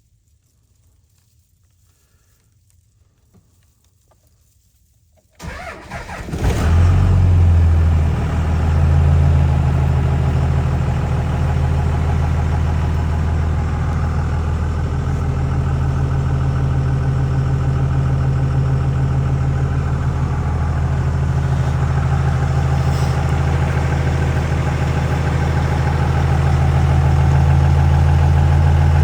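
Second-generation Dodge Ram's Cummins 5.9 inline-six turbodiesel making a cold start at 28°F. After a few seconds of near quiet it cranks for about a second, catches, surges briefly and settles into a steady idle.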